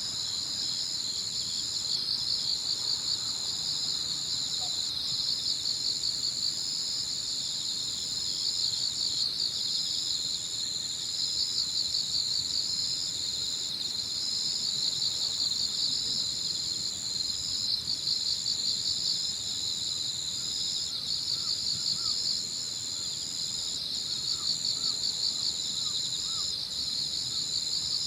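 Chorus of crickets and other singing insects: one steady high-pitched trill that breaks off briefly every few seconds, over a slightly lower pulsing trill. A few faint short chirps join in the latter part.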